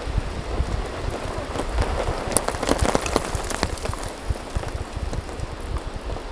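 Rain falling on a surface, a dense spatter of many small drop taps that is heaviest a little before the middle, with low dull thuds underneath.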